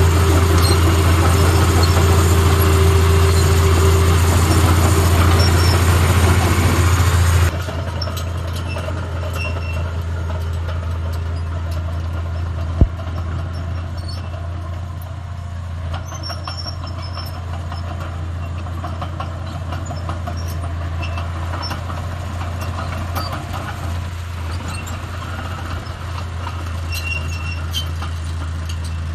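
Diesel engine of heavy earthmoving machinery running steadily with a deep hum. It is loud at first and drops abruptly to a quieter running about seven seconds in. A single sharp knock comes a few seconds later.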